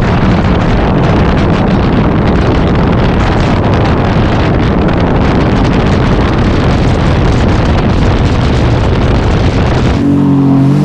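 Sea-Doo personal watercraft running at speed: a steady engine under heavy wind buffeting on the microphone. Near the end the wind rush drops away and the engine's tone comes through clearly.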